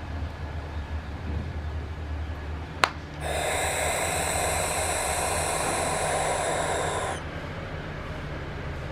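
Barn owl giving one long, harsh hissing screech of about four seconds, starting about three seconds in. A sharp click comes just before it.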